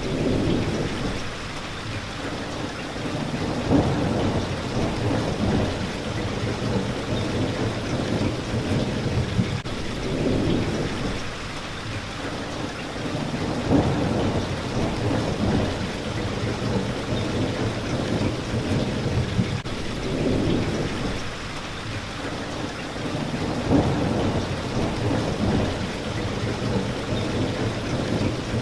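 Steady heavy rain pattering against a window pane, with low rumbles of thunder swelling and fading every few seconds.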